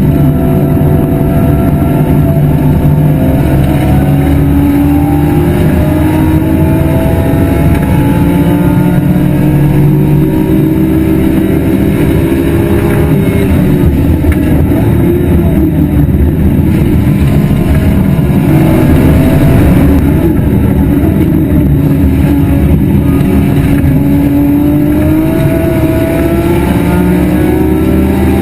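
BMW E46 M3's S54 straight-six racing engine running hard, its pitch climbing under acceleration and dropping at shifts and lifts.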